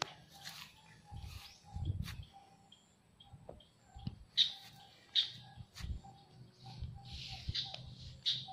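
Birds chirping and calling in short repeated notes, with low thuds of footsteps on grass.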